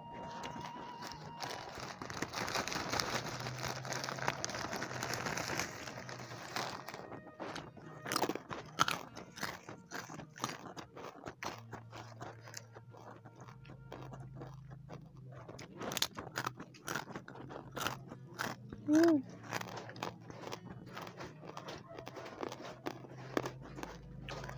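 Close-up mukbang eating sounds: a person crunching and chewing food, with a dense stretch of crunching early on, then many sharp mouth clicks and smacks. About three-quarters of the way through comes a brief pitched sound from the eater, the loudest moment.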